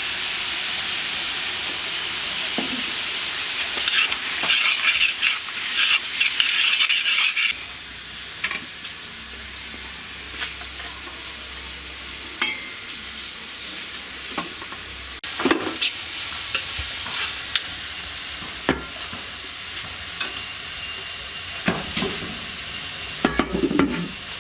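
Onions, green chillies and tomatoes sizzling in oil in a kadai while being stirred, with clinks and scrapes against the pan. The sizzle is loudest at first, with busy stirring from about four seconds in. It drops suddenly to a quieter hiss after about seven seconds, with only occasional clinks.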